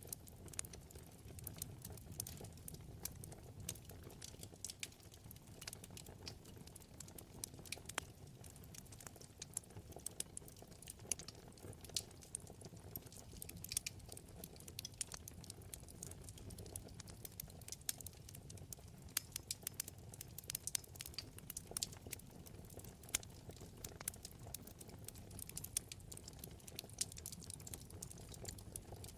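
Wood fire burning in a fireplace: many small, irregular crackles and pops over a soft steady low rush of the flames.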